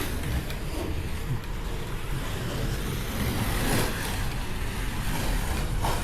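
Slot cars racing around the track just after the start: a steady whirring of their small electric motors and wheels on the track.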